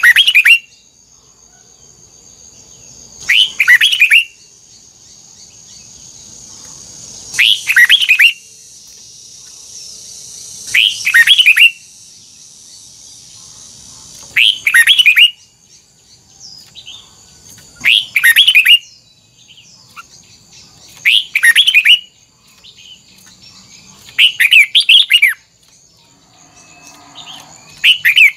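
Red-whiskered bulbul (chào mào) singing short, loud, warbled phrases about every three and a half seconds, eight or nine times, over a faint steady high-pitched drone.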